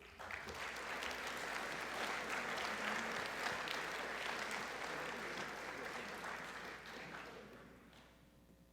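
Audience applauding, rising quickly and then fading out over several seconds.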